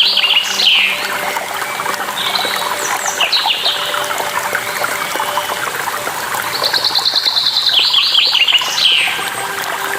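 Songbirds singing phrases of rapid repeated trills and falling chirps: one at the start, another around three seconds in, and a longer one from about six and a half to nine seconds. Underneath is a steady trickle of running water from a stream or waterfall.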